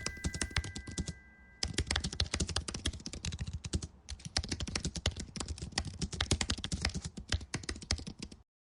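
Rapid typing on a computer keyboard, with fast key clicks. A short burst comes first and pauses about a second in, then the typing resumes steadily and stops abruptly near the end.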